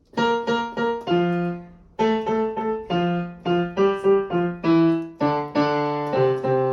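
Piano playing the melody line of a children's song alone, in short phrases of separate notes, each struck and fading, with a short break about two seconds in.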